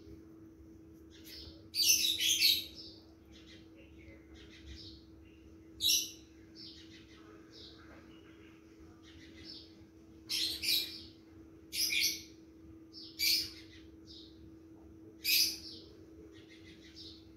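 A bird chirping in short high bursts, about seven times, over a steady low hum.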